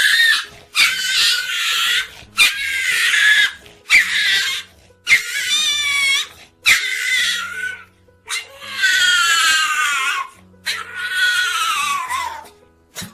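An animal's high-pitched cries repeated about nine times, each roughly a second long with short breaks between, some wavering and several falling in pitch at the end, over quiet background music.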